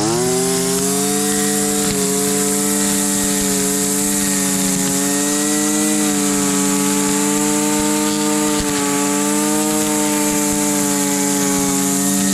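Husqvarna 326 LD string trimmer's small two-stroke engine held at full throttle, running steadily at high speed with a slight waver in pitch, easing off a little near the end.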